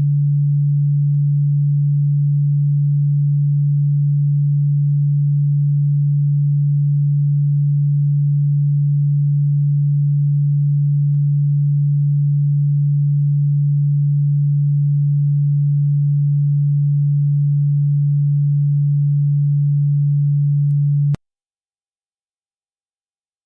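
A steady, low, pure electronic tone, played as a cockroach-repellent sound, which cuts off suddenly with a click near the end and leaves silence.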